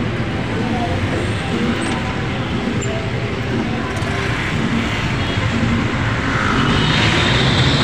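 Motorized tricycle's small motorcycle engine running steadily as it rides, with a low drone and road and traffic noise; a hiss swells near the end.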